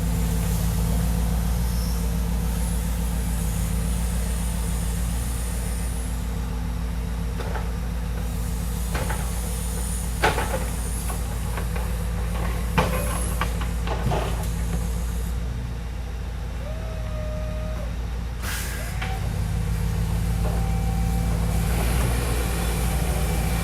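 The Scania R770's 16.4-litre V8 runs steadily while the truck's loading crane works. A thin whine comes and goes, several sharp knocks of beech logs sound around the middle, and a short hiss of air comes about three-quarters of the way in.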